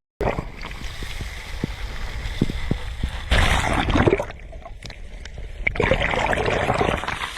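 Sea waves washing onto the shore, with two louder surges of breaking water over a steady wash of surf. The sound cuts out for a moment at the very start.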